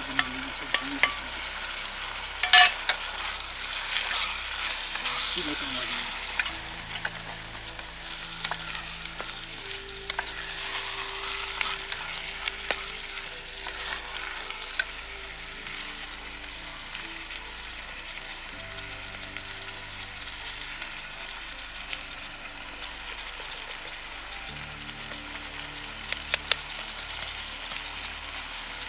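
Chopped tomatoes and onions sizzling in a camping pot over a gas canister stove, stirred with a wooden spatula that knocks and scrapes against the pot. The spatula knocks are loudest about two and a half seconds in.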